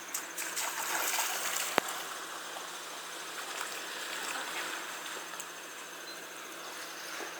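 Steady rain falling, with water trickling, and a single sharp click about two seconds in.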